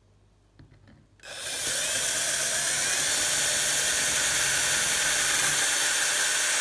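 Small electric drill with a 4 mm bit boring a hole in a vintage quick-release skewer. A few small knocks come first, then the drill starts about a second in and runs steadily.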